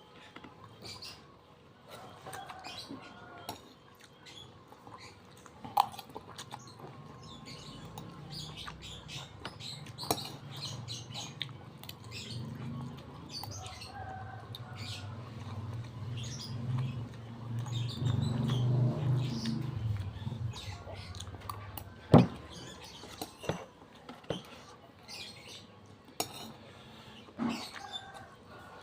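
Close-miked eating: chewing and mouth sounds from someone eating fried noodles with rice, with scattered clicks of cutlery on a plate, the loudest a sharp click about two-thirds of the way through. A low hum swells in the middle and fades out.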